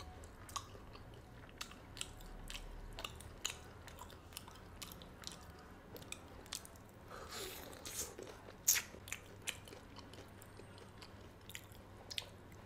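A person biting and chewing a crispy-skinned fried chicken wing, with faint crunches and small mouth clicks scattered through. The loudest crunch comes a little before nine seconds in.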